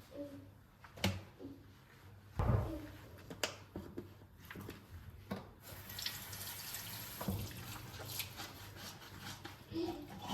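Water running from a tap into a sink for the second half, a steady hiss that stops shortly before the end. Before it come several sharp knocks and clatters of things being handled.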